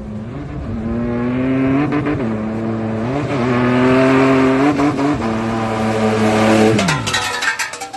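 Car engine running hard under acceleration, its note briefly rising and dipping every second or so. About seven seconds in the engine note drops away, and a quick run of clicks and knocks follows.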